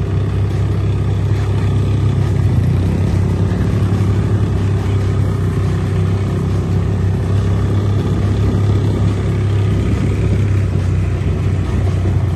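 ATV engine running steadily at an even speed, with a strong low hum.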